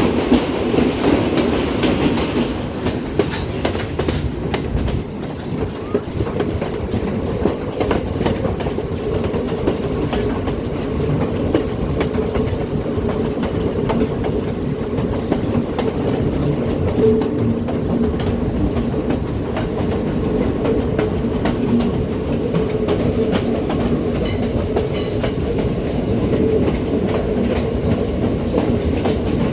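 Passenger train running along the track, heard from aboard: a steady rumble with the clatter of wheels over rail joints.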